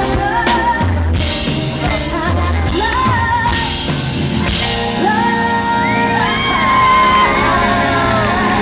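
Live pop concert heard from the audience: a band playing with singing, and whoops and shouts from the crowd.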